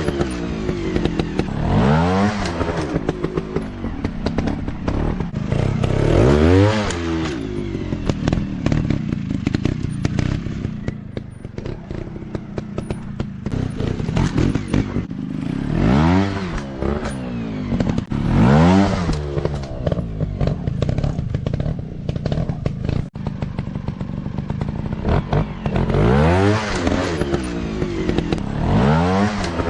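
Dirt bike engines revving hard in repeated throttle blips, the pitch rising and falling sharply every few seconds, with clattering and knocks over rough ground.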